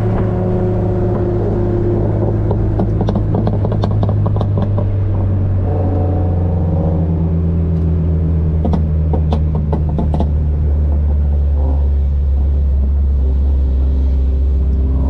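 Car engine running under steady load, a loud low drone whose pitch drifts slowly lower, with a few scattered clicks and knocks.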